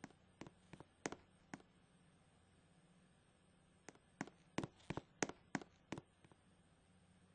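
Faint sharp clicks, about three a second, in two runs separated by a pause of about two seconds, over a faint steady low hum.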